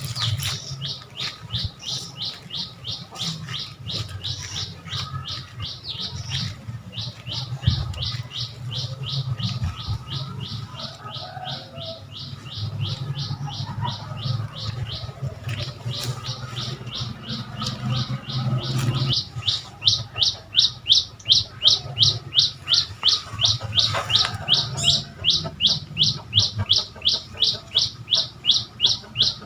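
A bird calling over and over in a fast, even series of short high notes, about three a second. The calls get louder about two-thirds of the way through.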